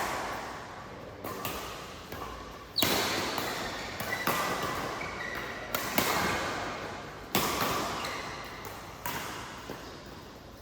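Badminton rackets striking the shuttlecock in a rally, about seven sharp hits roughly one every one and a half seconds, each trailing off in the echo of a large hall.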